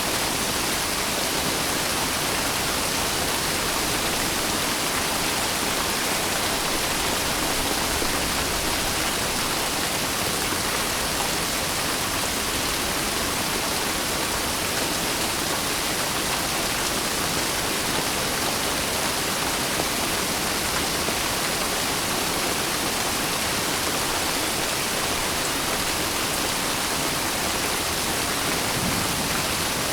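Steady rain, an even hiss without distinct drops or changes.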